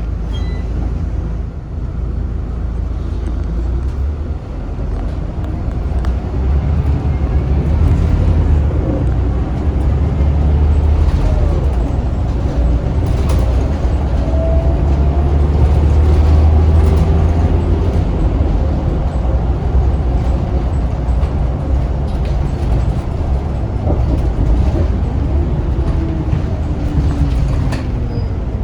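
Scania DC9 9-litre six-cylinder turbo diesel of a Scania L94UB bus running under way, with a deep, steady rumble. The rumble builds from about six seconds in, peaks around the middle and eases toward the end, with faint whines gliding up and down in pitch.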